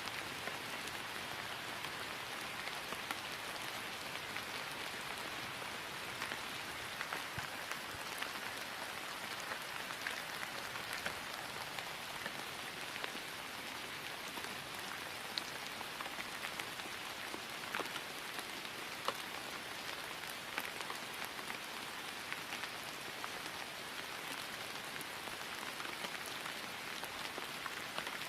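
Steady rain falling on grass: an even patter with many small scattered drop ticks.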